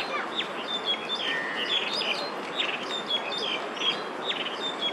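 Small birds chirping, a run of short high calls repeating about twice a second over a steady hum of background noise.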